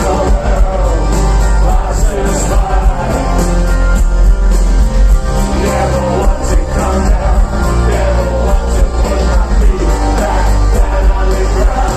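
Live rock band playing with singing over a steady beat and heavy bass, loud throughout.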